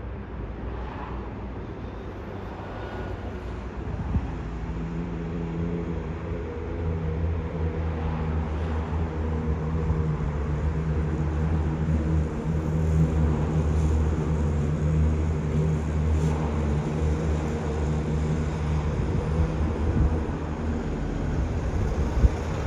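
Jet airliner's engines running with a steady low hum that comes in a few seconds in, grows slowly louder and eases off near the end.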